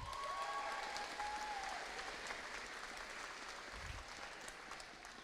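Audience applauding for a student called up for a certificate, strongest at first and gradually fading, with a brief voice or cheer in the first couple of seconds.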